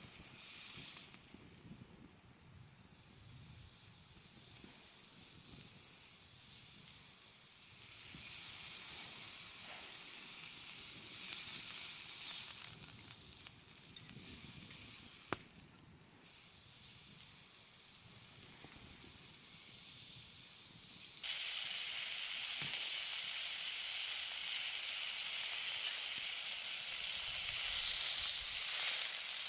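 Meat sizzling in a small frying pan over a campfire, a steady hiss that gets suddenly louder about two-thirds of the way through.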